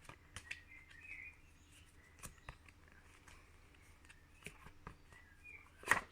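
Quiet room with scattered faint taps and clicks of phonics flashcards being handled and flipped, with a sharper tap near the end. Faint high chirps come and go.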